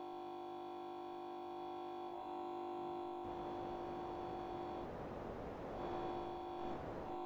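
Restaurant air conditioner running with a steady multi-tone hum and whine. About three seconds in, a rushing of air rises under it.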